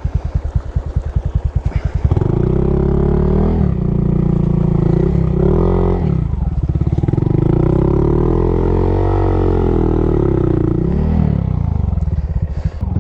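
Honda Monkey's small single-cylinder engine chugging at low revs, then revving up about two seconds in, its pitch rising and falling as it works through slick mud.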